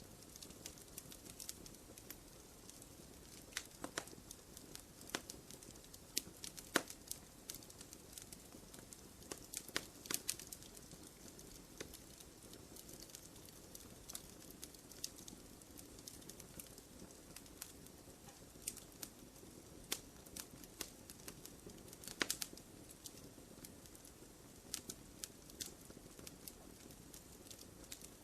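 Wood fire crackling in a fireplace: irregular sharp pops and snaps, a few louder ones scattered through, over a soft steady rush of the flames.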